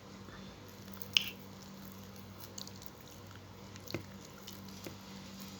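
Close-miked chewing and mouth sounds while eating, with a few short sharp clicks, over a steady low electrical hum.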